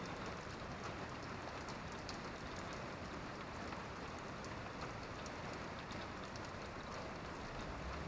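Steady rain falling, an even patter with scattered sharper drops.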